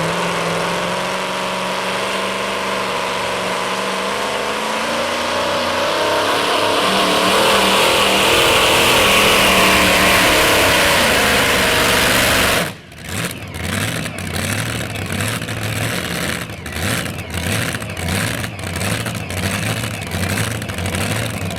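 Modified two-wheel-drive pulling truck's engine running hard under load during a pull, its pitch sliding and the noise building to its loudest about ten seconds in. Nearly halfway through it cuts off abruptly, giving way to a quieter, uneven, pulsing engine sound.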